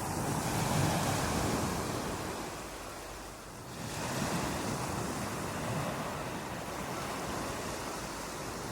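Ocean waves breaking on a beach: a continuous rush of surf that swells about a second in, eases off, then surges again just before four seconds.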